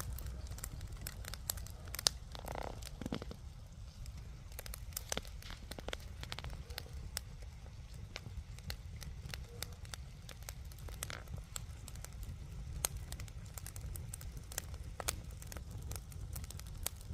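Bonfire crackling, with sharp irregular pops and snaps over a low steady rumble.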